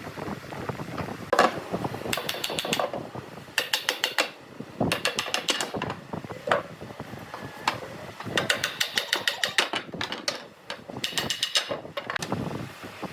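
A ratchet-like mechanism clicking rapidly in five short runs, each lasting about half a second to a second, with a few single knocks in between.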